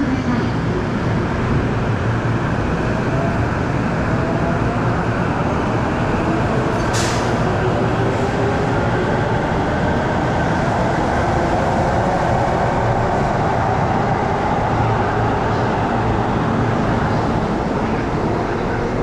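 Electric commuter train moving at a station platform: a steady loud rumble under whining tones that slowly rise and fall in pitch, with a brief hiss about seven seconds in.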